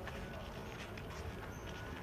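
Footsteps of a person walking on a street, a run of irregular short taps over a steady low rumble.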